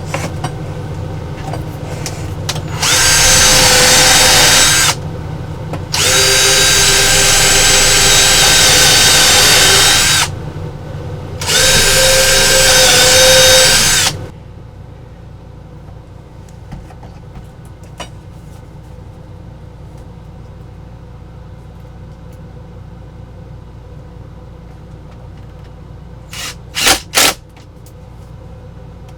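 Power drill running in three bursts of a few seconds each, driving screws to fasten a brace into the bed's wooden frame. A couple of short sharp sounds follow near the end.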